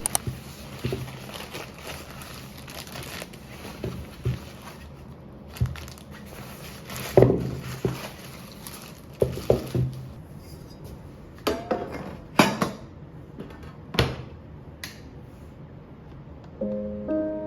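Kitchen handling sounds: scattered knocks, clinks and clatters of dishes and utensils being picked up and set down, over a low steady room hum. Near the end, piano background music comes back in.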